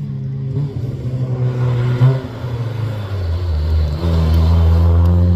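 Rally car engine running on track, its note dropping in steps over the first few seconds, then growing louder from about four seconds in and breaking off just at the end.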